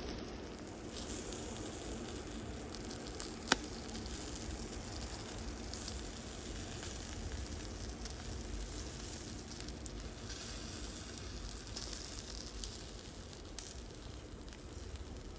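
Food frying and sizzling over a cooking flame, a steady hiss, with one sharp click about three and a half seconds in.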